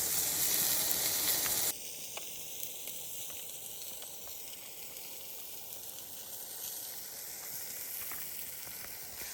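Beef skewers sizzling as they cook. The sizzle drops off abruptly less than two seconds in, leaving a quieter steady hiss.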